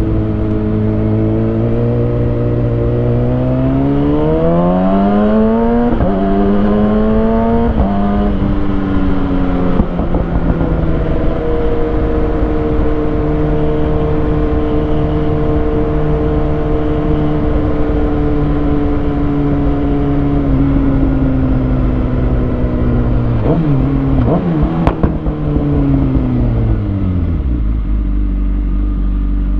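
2020 Kawasaki Ninja ZX-6R's inline-four through a Lextek SP7C carbon exhaust with decat headers, pulling up through two gears with a pitch drop at each shift, then holding a steady cruise. Near the end it slows down through the gears, with a few sharp pops and blips, and settles to a low idle.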